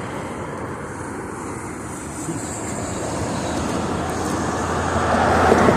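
Road traffic noise: a steady rush of vehicle and tyre sound that grows louder near the end.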